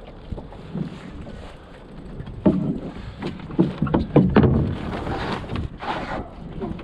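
Water slapping and splashing against a small wooden sailboat's hull under way in choppy water, with several sudden thumps in the middle and wind buffeting the microphone.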